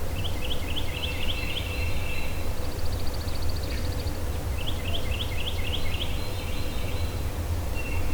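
A songbird singing two runs of quick, repeated rising notes, with a short buzzy trill between them, over a low steady rumble.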